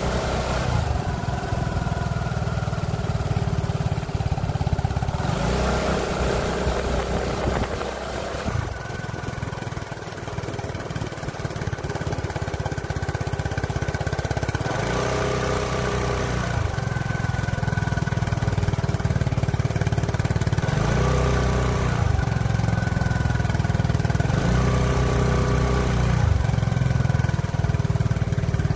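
Scooter's single-cylinder engine running while being ridden, with higher-pitched tones swelling in and fading out several times.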